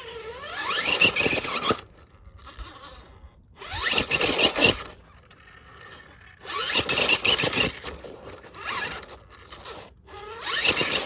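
RC rock crawler's electric motor and gears whining in about five short throttle bursts, the pitch rising within some of them, with tyres scraping on rock as the truck works its way up a rough obstacle.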